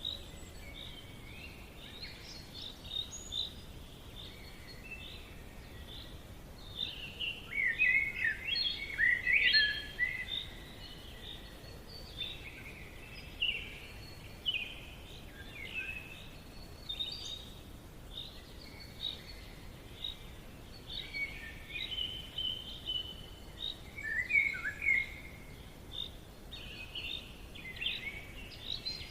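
Forest birdsong: several songbirds chirping and trilling over a faint steady background hiss, busiest and loudest about a third of the way in.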